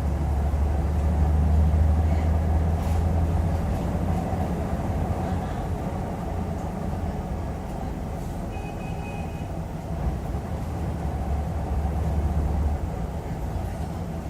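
Hyundai Aerocity 540 city bus engine running, a deep steady rumble that swells in the first few seconds and again about ten seconds in as the bus pulls. A brief high squeal comes about nine seconds in.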